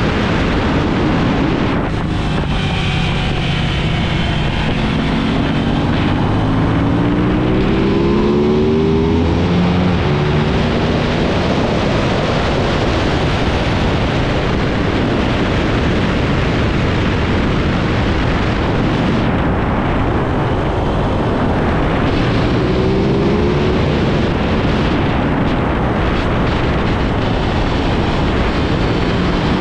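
Aprilia RS660's parallel-twin engine accelerating hard on track, its pitch climbing repeatedly for several seconds before being buried under heavy wind rush on the microphone at speed; it climbs again briefly twice later on.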